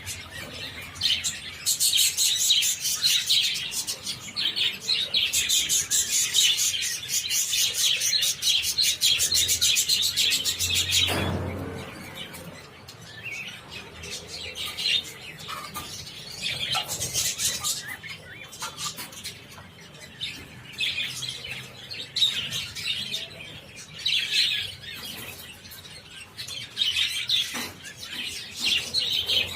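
A flock of budgerigars chirping and chattering, loudest for roughly the first ten seconds and then quieter. There is a dull bump about eleven seconds in.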